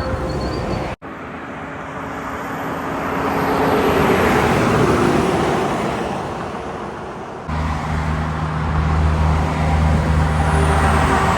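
A road vehicle passes, its engine and tyre noise swelling and then fading. After a sudden cut, a heavy truck engine runs with a steady low drone.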